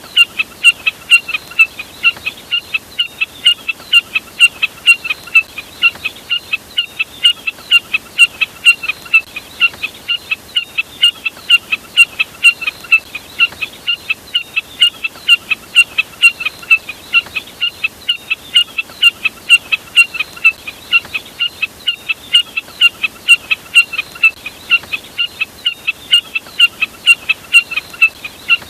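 A snipe's short call, the bird labelled common jack snipe (burcet), repeated about three times a second without a break.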